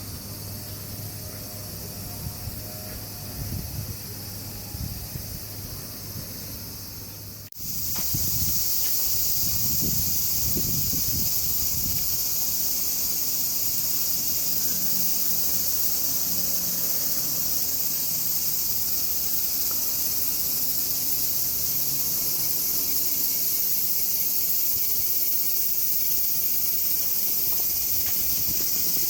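An outdoor insect chorus, a dense, steady high-pitched chirring. An abrupt cut about seven and a half seconds in brings a louder, fuller chorus, with low rumbling knocks in the first few seconds after it.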